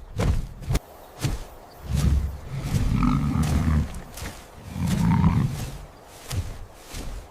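Lion growling and roaring in two long, low bouts, among repeated short, sharp thuds.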